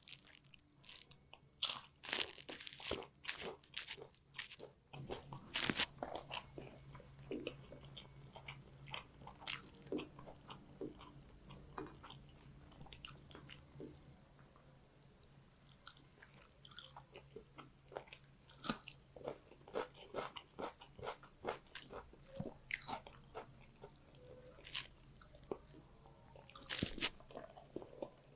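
Close-miked eating: a person biting and chewing a meal of fish curry, rice and onion, with many sharp, irregular crunches and wet mouth clicks.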